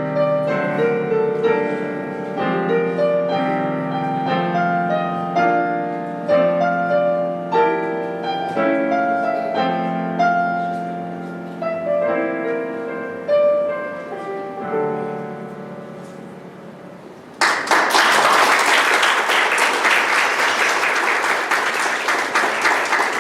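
Solo piano playing the closing bars of a whimsical waltz, ending on a held chord that fades away. About seventeen seconds in, an audience suddenly breaks into applause that carries on to the end.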